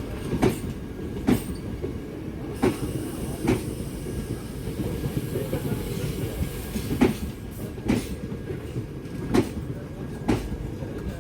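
Passenger train running on the track with a steady low rumble, its wheels clacking over rail joints in pairs of sharp clicks, four pairs in all.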